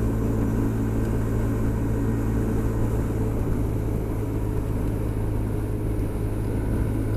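Honda SH 300i scooter's single-cylinder engine running steadily at cruising speed, with steady wind and road noise.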